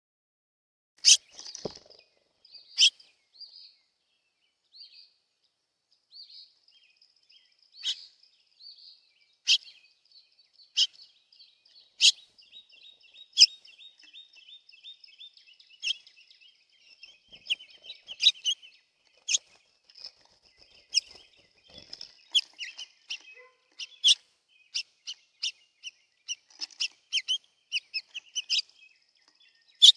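Small birds at a bird feeder: high chirps and twittering calls, with sharp taps and clicks at irregular intervals that grow more frequent in the second half.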